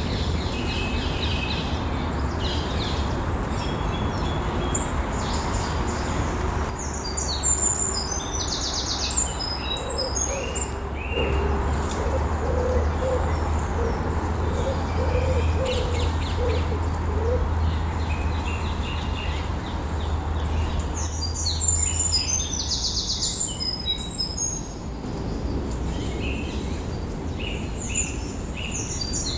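Woodland birds singing and chirping, with a fast trilled song heard twice, about fifteen seconds apart. A run of low, short notes comes in the middle, all over a steady low rumble.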